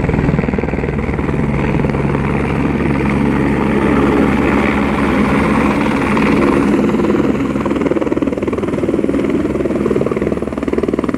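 Helicopter close by, its rotor beating in a rapid steady chop with a thin high turbine whine over it, running loud throughout.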